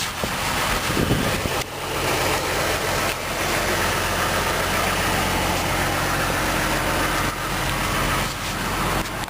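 2003 GMC Envoy's Vortec 4200 straight-six idling steadily, with an even hiss over the engine note.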